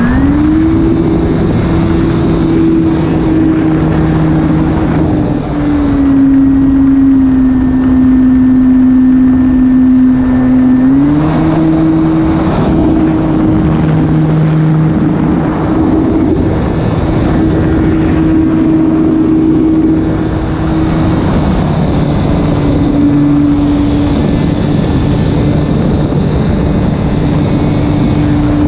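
E-flite Carbon-Z Cub SS radio-control plane's electric motor and propeller running steadily in flight, a loud steady hum that drops in pitch about five seconds in, rises again about eleven seconds in, and dips slightly a little past twenty seconds.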